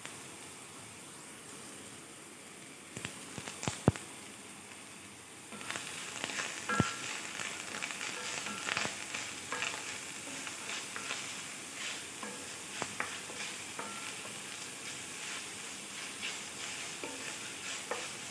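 Sliced onion, green chilies and curry leaves frying in hot coconut oil in a cast iron pot. A steady sizzle with a few sharp clicks about three to four seconds in, then a louder, crackling sizzle from about five and a half seconds on.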